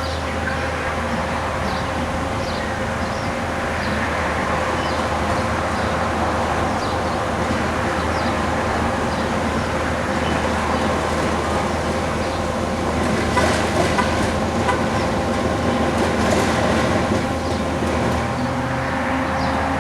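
Bobcat skid steer's diesel engine and hydraulic road-work attachment running steadily under load, with a low hum and a steady whine over a rough grinding noise. The noise gets louder and harsher about two-thirds of the way in.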